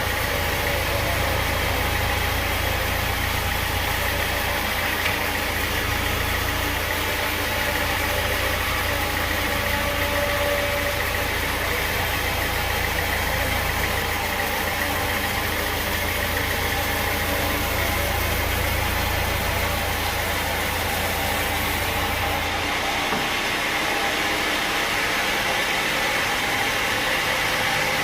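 Sawmill machinery running steadily, with engine-like noise and a deep rumble. Near the end the rumble drops away suddenly.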